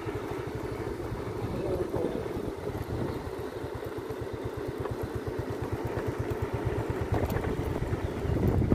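Engine of the vehicle carrying the camera, running steadily as it drives along, heard from on board as a rapid, even low pulsing with a steady hum, getting a little louder near the end.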